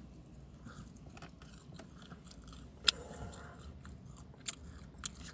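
Someone biting into and chewing a small shrimp-filled pot sticker, mouth sounds close to the microphone. A sharp click stands out about three seconds in, with two fainter clicks near the end.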